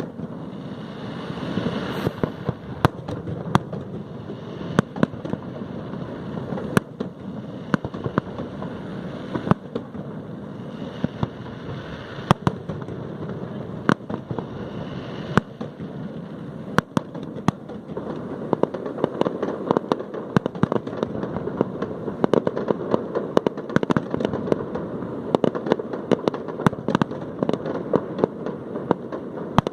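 Fireworks display: many sharp bangs and crackles going off at irregular intervals throughout.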